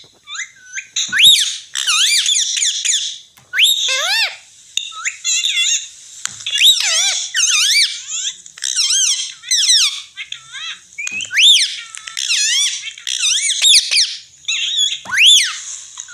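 Pet parrot chattering: a rapid run of shrill chirps and squawks, each sweeping sharply up and down in pitch, with short pauses between bursts.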